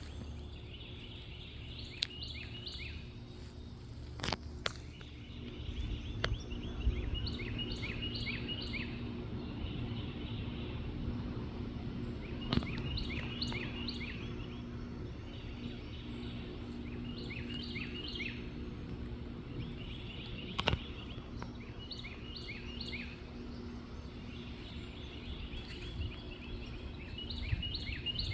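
A songbird repeating a short phrase of quick down-slurred notes about every five seconds, over a steady low outdoor rumble, with a few sharp clicks scattered through.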